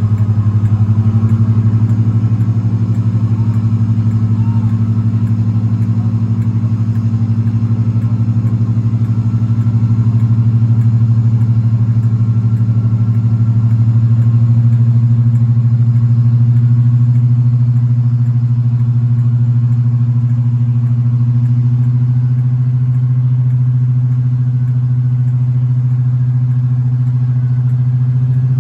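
Class 55 Deltic locomotive's twin Napier Deltic two-stroke diesel engines running steadily, a loud deep drone that swells slightly midway.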